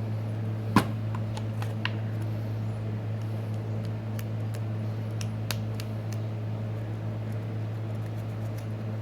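Steady low hum with scattered small clicks and taps of hand tools and parts being handled during a phone repair; the sharpest click comes about a second in.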